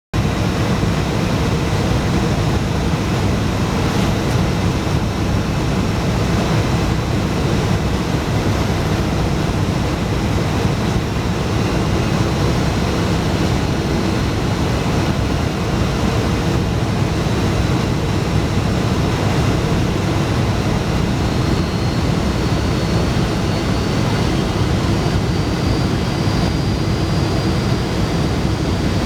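Steady jet-engine and airflow noise inside the cabin of a Boeing 757-200 in flight on approach, strongest in the low rumble. Near the end a faint high engine whine comes in and steps up in pitch.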